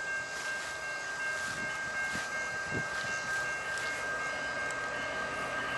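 BNSF freight train approaching in the distance: a steady noise with a high whine held throughout.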